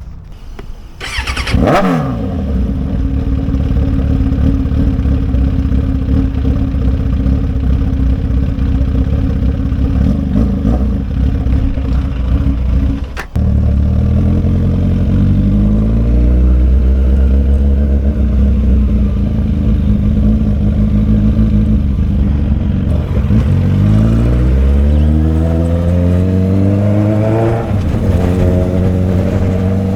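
Motorcycle engine running under way, heard from the bike being ridden. A short sweep falling in pitch comes just after the start, and the sound breaks off briefly about 13 seconds in, as at a gear change. From about 24 seconds the engine pitch rises as the bike accelerates, with another shift near the end.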